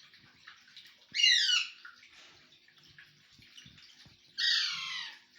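A bird giving two harsh, downward-sliding squawks about three seconds apart, over a steady faint hiss.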